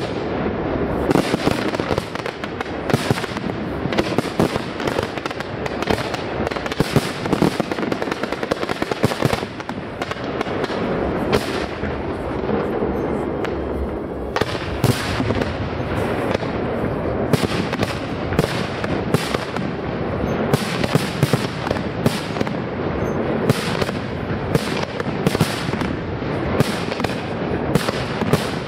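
Large fireworks display: aerial shells bursting one after another, with sharp bangs coming about every second or faster over a steady, dense crackle and rumble of the barrage.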